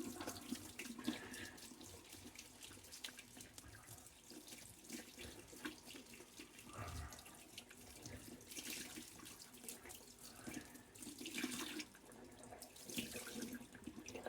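Water running from a tap into a sink, faint, with a few louder stretches now and then.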